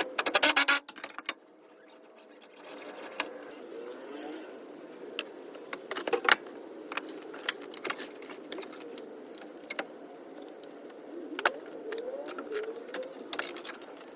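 A quick rapid rattle in the first second, then scattered sharp clicks and knocks, like hand-tool and parts work on a car.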